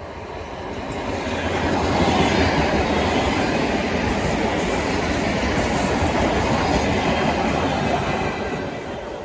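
Freight train passing at speed, its wheels clattering over the rails: it grows louder over the first two seconds, runs steadily loud for several seconds, then fades near the end.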